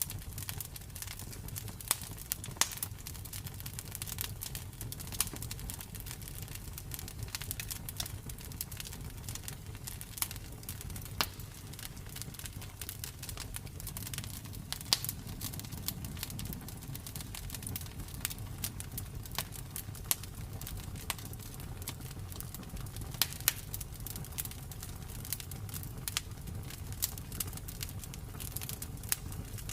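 Campfire burning with irregular crackles and sharp pops over a low steady rumble of the flames.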